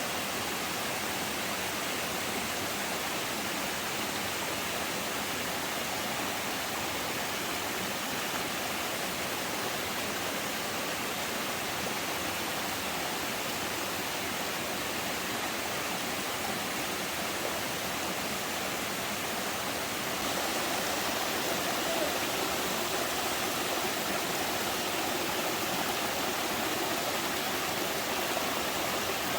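Steady rushing of flowing stream water, getting a little louder about twenty seconds in.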